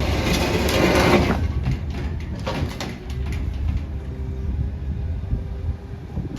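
Grapple truck's engine running steadily while the grapple works a pile of debris: a loud burst of crunching and cracking over the first second or so, then scattered cracks and snaps.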